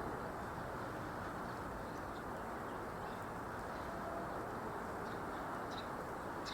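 Steady low background rumble, with a few faint, short, high bird calls about two, three and six seconds in.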